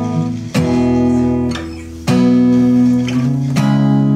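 Guitar strummed: three chords struck about a second and a half apart, each left ringing. The player suspects the guitar may be a little out of tune.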